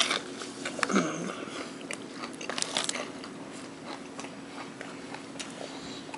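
Biting into and chewing a crispy spicy fried chicken thigh: crackly crunches of the breading, loudest in the first three seconds, then quieter chewing.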